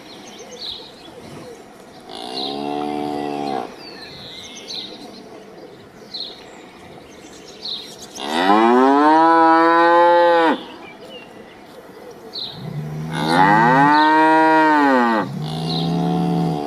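Cow mooing several times: a shorter, quieter moo, then two long loud moos whose pitch rises and falls, and another beginning near the end. Faint bird chirps between the moos.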